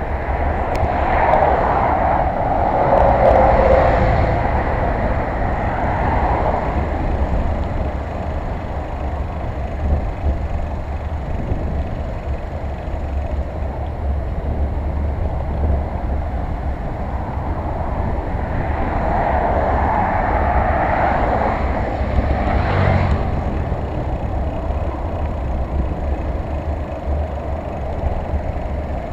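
Hurricane-force wind buffeting the microphone as a steady low rumble, with two vehicles passing, swelling up and fading away, one in the first few seconds and another about twenty seconds in.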